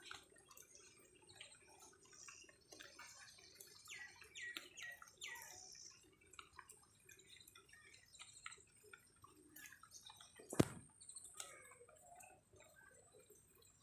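Faint morning outdoor ambience: birds chirping, with a run of quick falling calls about four to five seconds in, over scattered small ticks and drips and a thin steady high tone. One sharp click stands out about ten seconds in.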